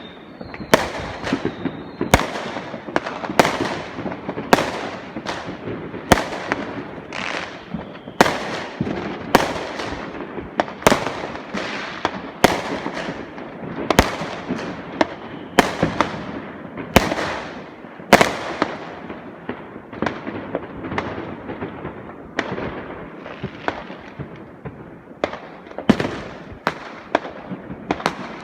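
Fireworks going off in a continuous barrage: sharp bangs about one to two a second, each dying away quickly.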